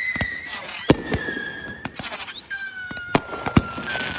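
Fireworks going off: a long whistle, dropping slightly in pitch, then a second, lower whistle starting past halfway, over scattered sharp bangs and crackles.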